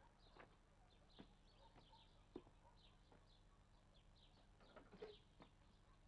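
Near silence outdoors, with faint, frequent short bird chirps and a few soft knocks.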